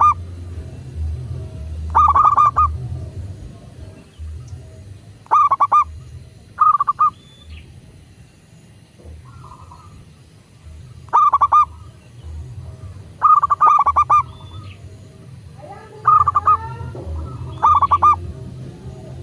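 Zebra doves cooing: short, rapidly pulsed staccato coos repeated every one to three seconds, with a few gliding bird chirps near the end.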